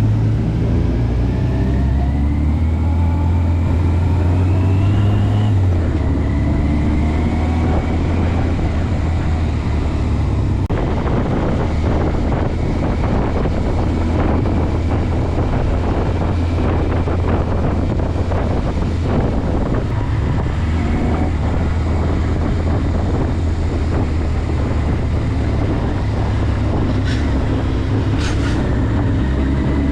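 Motorcycle engine accelerating, its pitch climbing over the first several seconds, dropping at about six seconds as it shifts up, then climbing again. It then settles to a steady cruise with wind buffeting the microphone, and the revs start rising again near the end.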